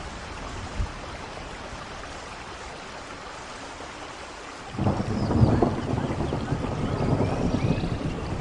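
Steady rain. A little over halfway through, a loud, low rumble of thunder comes in suddenly along with heavier rain, and it keeps going.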